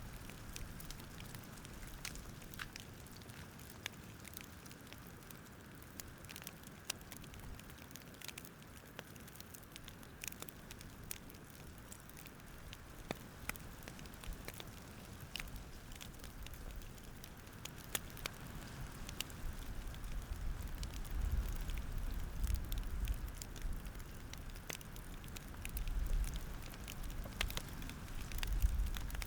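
Campfire crackling: scattered sharp pops and snaps at irregular intervals over a low rumble that grows stronger in the second half.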